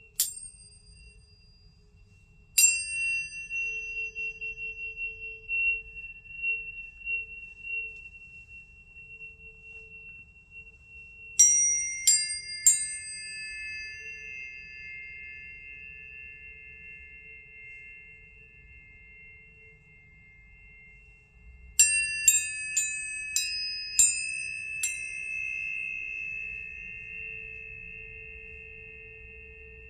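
Tuning forks struck again and again, each strike a bright ping that settles into a long, steady ringing tone. Several forks at different pitches ring on together. There are single strikes at the start and a couple of seconds in, three quick ones about eleven seconds in, and a run of about six more near the end.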